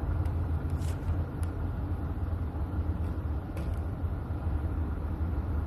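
A steady low rumble, with a few faint clicks of small plastic parts being pushed together.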